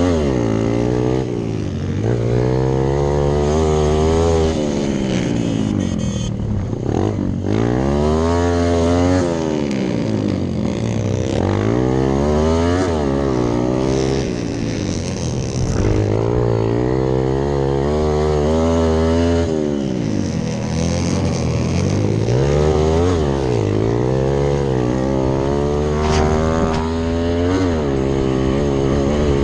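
Hero Impulse dirt bike's single-cylinder four-stroke engine, rally-built to under 165cc, revving hard and backing off again and again, its pitch rising and falling every two to three seconds as the rider works the throttle and gears along a dirt track.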